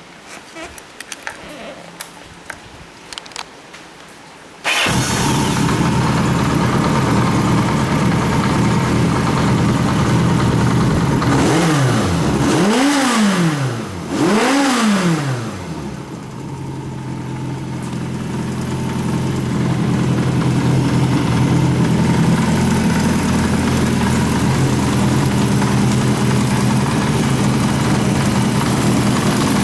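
Kawasaki KZ700's air-cooled inline-four engine catching after a few light clicks, about four and a half seconds in, then running. It is blipped twice with the throttle, revving up quickly and falling straight back, then idles steadily. It revs up cleanly, a sign that the engine is in running order.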